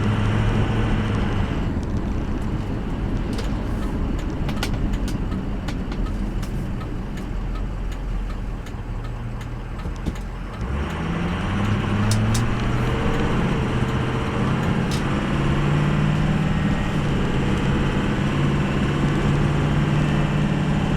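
2003 Ford F350's 6.0-litre Powerstroke turbo diesel V8 driving: the engine note drops back and eases off for several seconds, then about halfway through rises as the truck accelerates and settles into a steady pull, with smooth automatic gear shifts.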